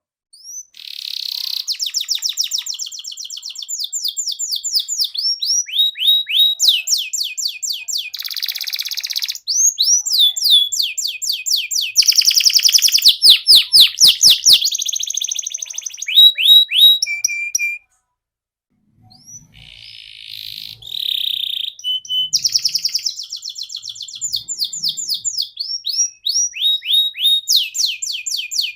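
Domestic canary singing long, fast trills and rolls of repeated high notes, phrase after phrase, with a pause of about a second two-thirds of the way through.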